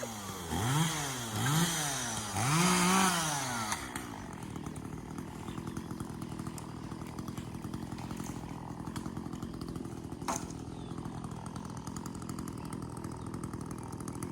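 Gas chainsaw revved three times, its pitch rising and falling with each rev, then left idling steadily from about four seconds in. A single sharp click sounds about ten seconds in.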